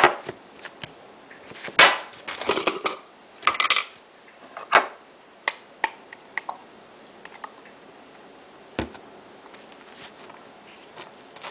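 Dishes and cutlery being handled in a kitchen: scattered clinks and knocks, with a few short clattering bursts about two and three and a half seconds in.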